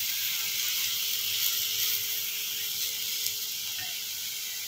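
Grated bottle gourd frying in ghee in a pan over a low flame: a steady, gentle sizzle that fades slowly.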